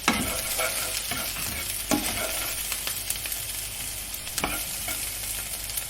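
Aloo tikki (spiced potato patties) sizzling as they fry in hot oil in a pan, with a spatula scraping or knocking against the pan a few times.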